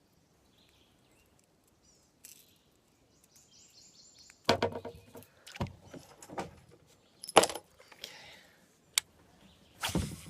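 Several sharp knocks and clatters with a short ring after each, and a brief run of small even clicks before them: fishing tackle and gear being handled on a kayak.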